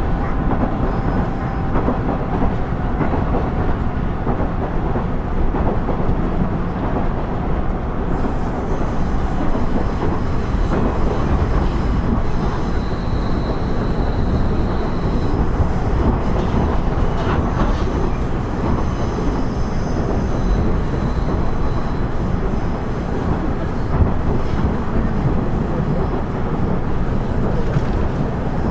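Running sound of a KiHa 110-series (KiHa 112) diesel railcar under way: the steady low rumble of its engine and wheels on the rails.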